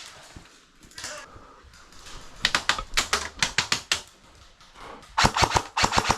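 Airsoft guns firing in two quick strings of sharp clicking shots, the first about two and a half seconds in and the second near the end.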